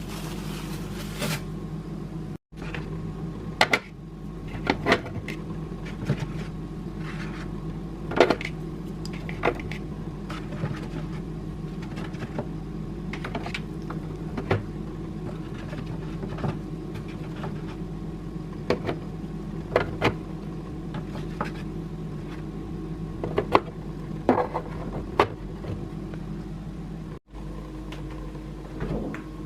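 Kitchen containers and packaging being handled and set down: scattered light clicks and knocks, several a few seconds apart, over a steady appliance hum.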